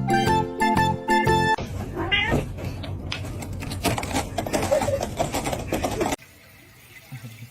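Light plucked background music for the first second and a half, then a cat meowing amid a burst of noise and clatter that cuts off suddenly near the end.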